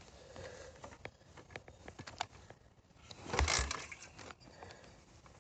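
Apollo dirt bike being cranked for a cold start with the choke on: small clicks, then one short burst of cranking about three seconds in, and the engine does not catch.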